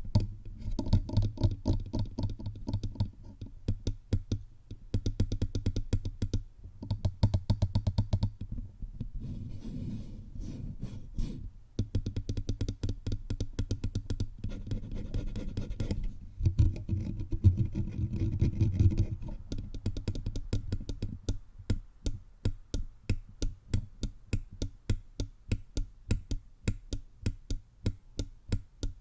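Fingertips tapping rapidly all over a bare microphone, each tap a close, bassy thump, with a stretch of scratching on the mic about ten seconds in. Near the end the tapping settles into a slower, even rhythm of separate taps.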